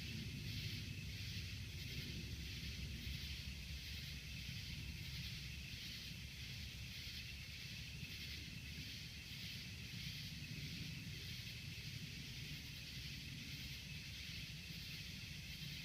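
Outdoor ambience: a steady low rumble under a high, regular pulsing chorus that repeats a little under twice a second.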